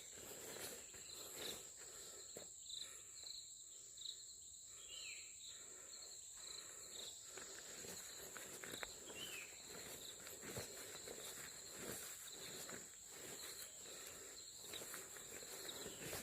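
Insects keep up a steady high buzz, with short repeated chirps over it, while footsteps crunch softly and evenly along a dirt footpath.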